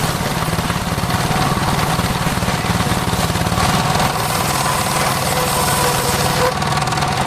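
Engine-driven homemade circular sawmill rig running steadily: a low, pulsing engine note with a steady whine from the spinning blade over a constant rush of noise.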